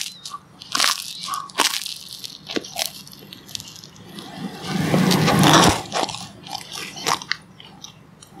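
Close-miked biting and chewing of brown bread with strawberry jam: a run of short, sharp crunches, with a longer, louder noise about five seconds in.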